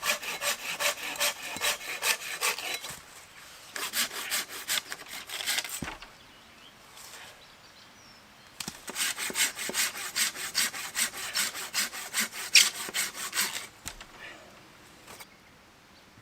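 A hand saw cutting through wood in quick, even back-and-forth strokes. It comes in three spells with short pauses between them, and the last spell is the longest.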